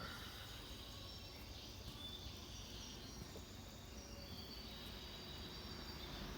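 Faint outdoor background noise with short, high chirps from small birds scattered throughout.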